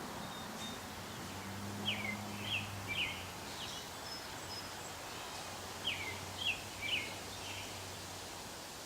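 Small birds chirping: short falling chirps in two quick groups of three, over steady outdoor background noise and a low hum that stops near the end.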